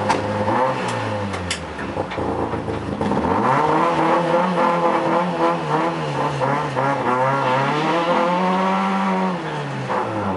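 Peugeot 106 Group A rally car's four-cylinder engine heard from inside the stripped cabin, idling and then revved as the car pulls away slowly, with the revs rising and falling again and again and dropping back near the end. A few sharp clicks come in the first two seconds.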